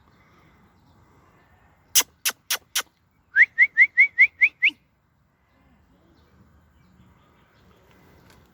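A bird calling close by: four sharp, clipped notes in quick succession, then a run of seven short rising chirps.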